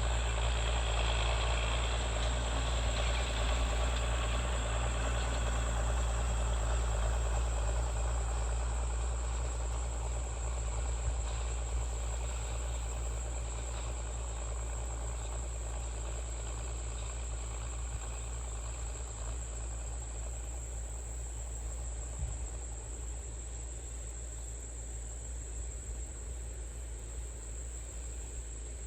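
Allis-Chalmers D17 tractor engine running steadily with a deep, even rumble that gradually fades over the stretch.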